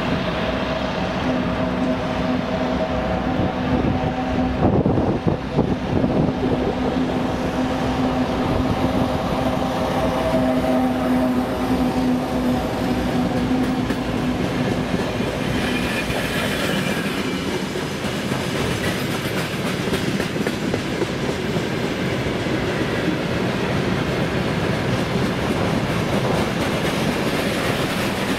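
A 2M62U two-section diesel locomotive passes at the head of a freight train, its two-stroke V12 diesel engines giving a steady drone that is loudest about five seconds in and fades out about halfway through. After that the freight wagons roll by, with the wheels clattering over the rail joints.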